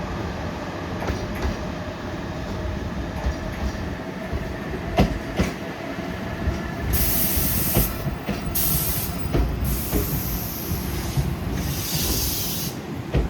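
Tobu 8000-series electric train rolling slowly into a station, its wheels knocking over rail joints with a steady running hum. In its second half come four short bursts of hissing air, the last ending near the end.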